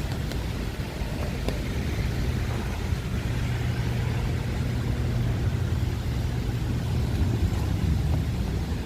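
Motor vehicle going by on a street, its low engine hum swelling for a few seconds in the middle, over a steady wash of outdoor noise.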